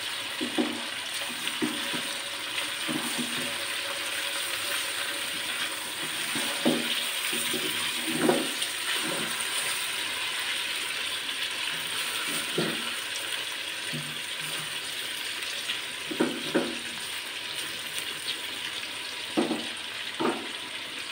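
Chicken pieces and onions sizzling steadily in hot oil in a kadai, being seared until the raw meat turns light pink. A spatula stirs them now and then, giving short soft knocks and scrapes against the pan.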